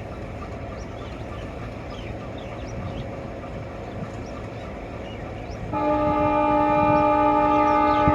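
Train running with a steady rumble; about six seconds in a diesel locomotive's horn sounds one long, steady chord of several notes.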